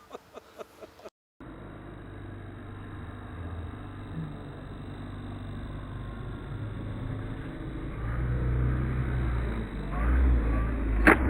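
Electric OMP Hobby 60" Edge 540 RC aerobatic plane flying, its motor and propeller a low drone that grows louder towards the end. A sharp crack of impact follows just before the end, which fits the plane hitting the ground nose-first.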